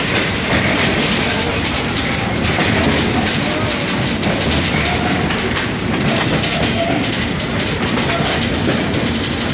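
Tourist train's passenger car running along its track: a steady, continuous noise of the moving train and its wheels on the rails.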